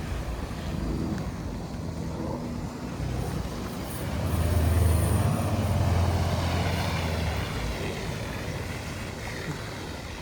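A motor vehicle driving past, its low engine rumble growing to a peak about five seconds in and then fading away.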